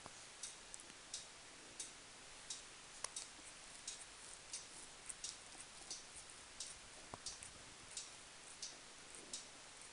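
Cat licking its fur while grooming: faint, short rasping licks about one and a half a second, at a slightly uneven pace, some doubled.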